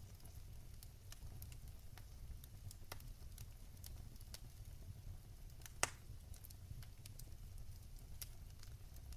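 Fire crackling in a fireplace: irregular small snaps and pops over a low steady rumble, with one sharper pop about six seconds in.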